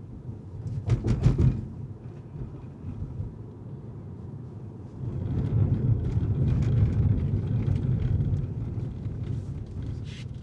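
Car driving on city streets: steady low road and engine rumble, with a short clatter of knocks about a second in and a louder rumble that swells from about five seconds in for several seconds.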